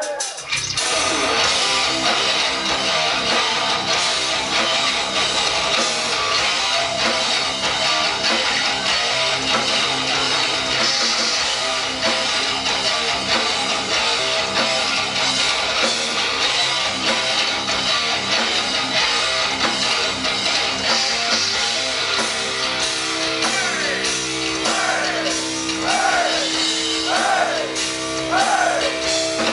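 Live heavy rock band playing, led by electric guitars. About twenty-two seconds in, held notes come in, followed by a run of repeated swooping pitch bends.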